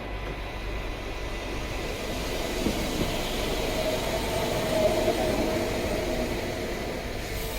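Sangi Railway Hokusei Line narrow-gauge electric train running, a steady rail noise with a tone that swells about halfway through and then eases.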